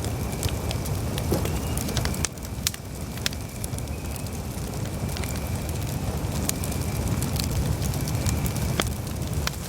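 Campfire burning: a steady low rumble of flames with scattered sharp crackles and pops from the burning wood at an uneven rate.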